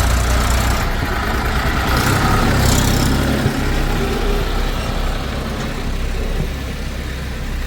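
Diesel engine of a backhoe loader or tractor running steadily at low revs, with two brief rushing hisses in the first three seconds.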